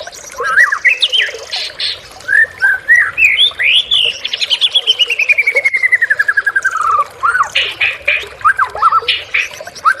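White-rumped shama singing a varied song of whistles and chirps, with a long run of rapid repeated notes sliding steadily down in pitch through the middle.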